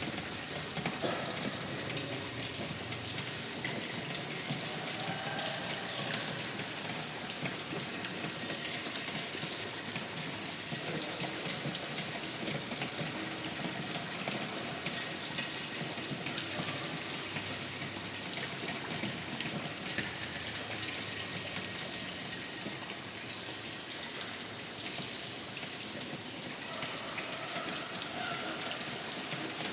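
Steady rain falling, an even, unbroken hiss of water with no let-up.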